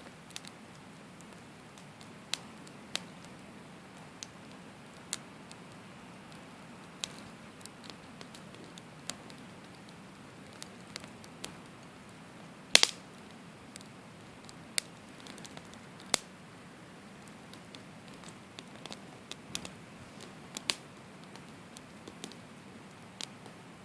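Wood campfire crackling: sharp, irregular pops over a steady low hiss, the loudest pop about halfway through.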